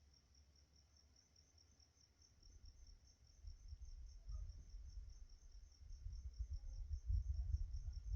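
Crickets chirping in a steady, evenly pulsed high trill. From about three seconds in, a low rumble of distant thunder builds and grows louder toward the end.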